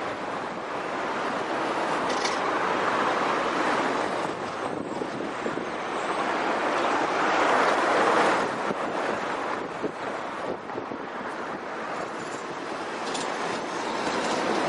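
Road noise from trucks driving past, buried in wind buffeting the microphone: a rushing hiss that swells about two seconds in and again, most loudly, about eight seconds in, then eases.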